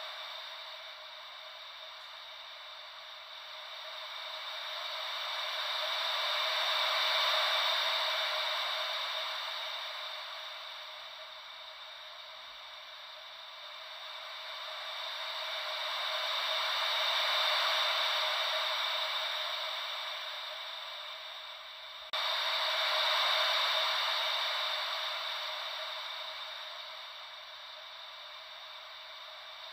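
Gentle ocean waves as a white-noise track: a thin, hissy wash with no deep rumble, swelling and fading about every ten seconds. About 22 seconds in it jumps suddenly to a louder swell.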